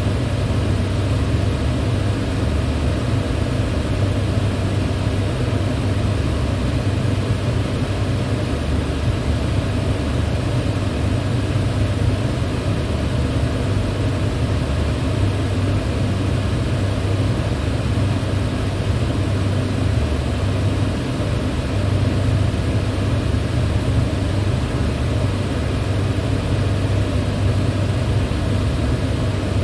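Electric fan running steadily: a constant low whooshing hum, strongest in the low end, with no change in speed.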